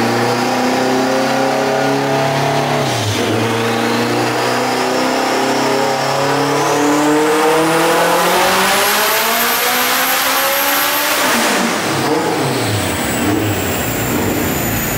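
Turbocharged AWD Honda Civic hatchback engine making a full-throttle pull on a chassis dyno. The revs climb steadily, with a brief dip about three seconds in, up to about eleven seconds. Then the throttle closes and the revs fall away as the car coasts down on the rollers.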